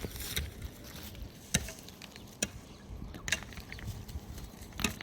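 Four sharp knocks at uneven intervals over a low background, the loudest about one and a half seconds in.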